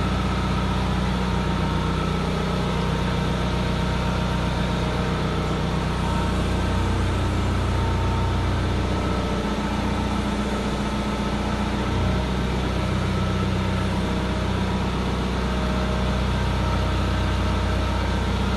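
Hitachi EX-75UR-3 excavator's diesel engine running steadily, its low note wavering for a few seconds in the middle.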